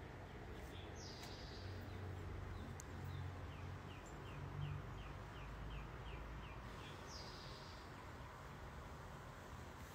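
Faint steady background noise with faint high chirps, heard as bird calls: a falling call about a second in, a quick run of about nine short chirps in the middle, and another falling call near the end.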